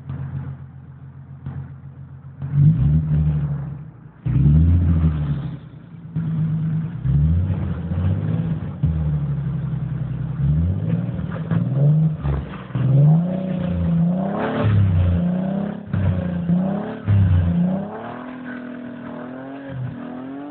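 Nissan 300ZX Z32's VG30DE 3.0-litre V6, breathing through tubular headers and a dual aftermarket exhaust, idles and is then blipped again and again, the revs rising and falling, before settling back toward idle near the end. The exhaust note is a very mellow tone, not too loud.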